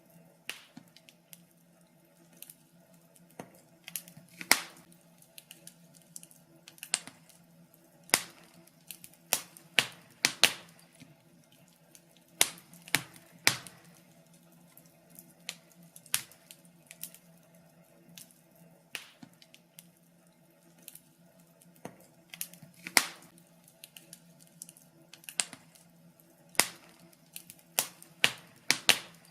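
Fire in a fireplace crackling, with irregular sharp snaps and pops, some much louder than others, over a faint steady hum.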